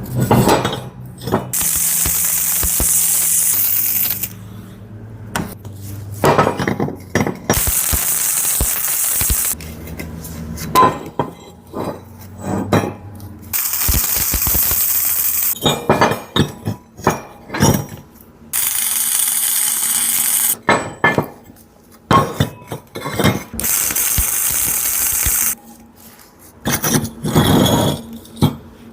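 Stick (arc) welding with welding rods, building up the edge of a hydraulic log-splitter axe blade: the arc hisses and crackles in several runs of a few seconds each, starting and stopping sharply. Sharp metallic clinks and knocks fall between the runs.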